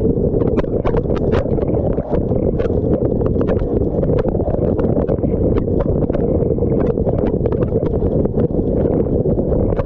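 Dishwasher wash cycle heard from inside the tub: a steady, heavy rush of spraying water, with irregular sharp ticks and taps of water striking close by.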